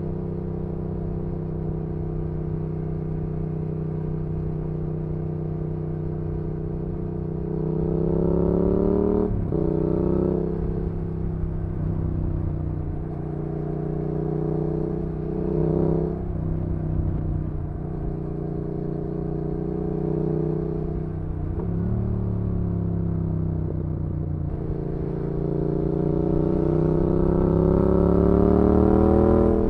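2019 Yamaha XSR700's 689 cc parallel-twin engine through an IXRACE MKII aftermarket exhaust, heard onboard while riding. It holds a steady note at first, then rises and falls with the throttle several times with short breaks in the note, and climbs in a long rise near the end.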